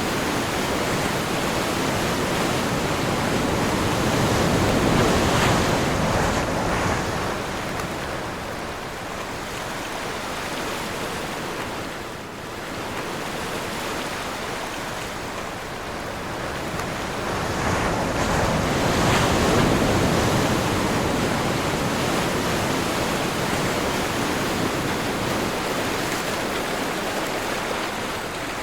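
Sea waves breaking and washing ashore on a windy day, with wind in the background. The surf swells twice, once about five seconds in and again near the twenty-second mark.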